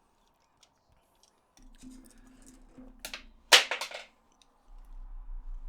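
Sharp clicks from PS4 controller parts being handled during reassembly: two quick snaps about three seconds in, the second the loudest, with a few lighter taps after them.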